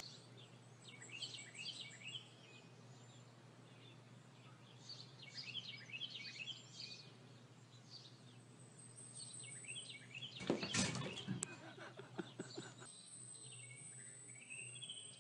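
Faint bird chirping in short bursts over a steady low hum, with a brief scuffling noise about ten seconds in.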